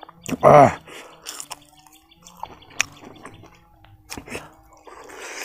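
Close-up eating sounds: wet mouth clicks and lip smacks, scattered irregularly, while chewing fried dry king chilli. A brief voiced hum comes about half a second in.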